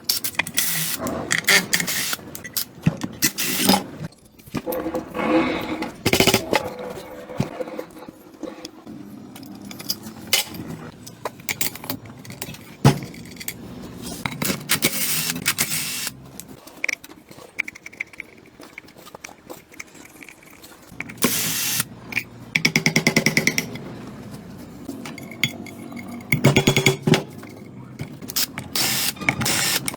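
Metal tools and parts clinking, knocking and scraping during motorcycle workshop work, with a short fast rattling burst about three-quarters of the way through.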